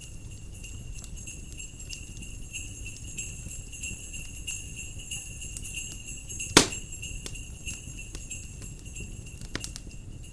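Jingle bells ringing steadily over the crackle of a wood fire, with one loud pop about two-thirds of the way through, and a low rumble of wind beneath.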